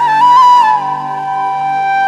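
Background music: a flute plays a quick ornamented phrase, then holds one long note from about a second in, over a steady low drone.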